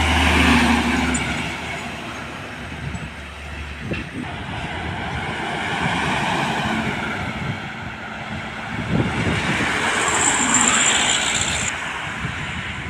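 Heavy road vehicles driving past, the noise of engines and tyres swelling and fading as each one passes, with a steady low engine hum that stops about four seconds in.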